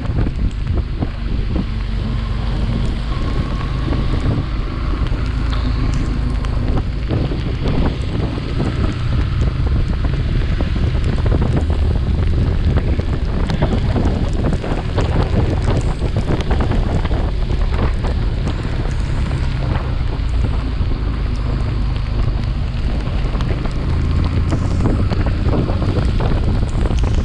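Heavy wind buffeting on a chest-mounted action camera's microphone from a moving motorcycle, steady throughout. The Yamaha FZS V3's single-cylinder engine hums faintly underneath.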